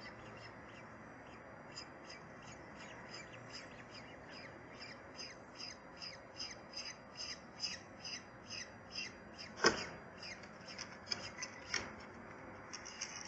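Birds at a nest giving a rapid series of short, high-pitched calls that sweep down in pitch, growing busier in the second half, with one sharp knock about ten seconds in.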